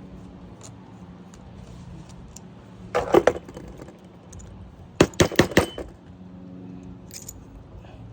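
Small metal pieces clinking: a short cluster of clinks about three seconds in, then a quick run of four or five clinks about two seconds later, over a faint steady hum.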